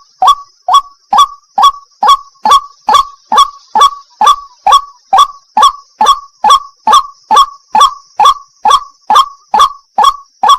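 White-breasted waterhen calling a rapid, even series of harsh 'wak' notes, a little over two a second, with a steady high hiss behind.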